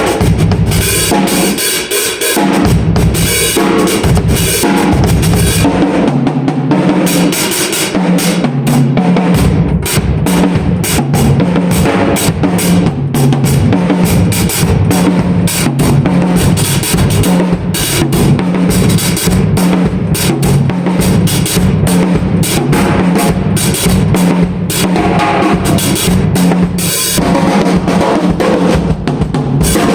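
Drum kit being played: bass drum, snare and cymbals in a steady, busy groove, thinner for the first few seconds before the full beat comes in.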